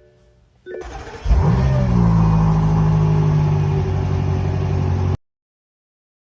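Car engine starting: a short beep, a brief crank, then the engine catches with a quick rise in revs and settles into a steady idle that cuts off abruptly about five seconds in.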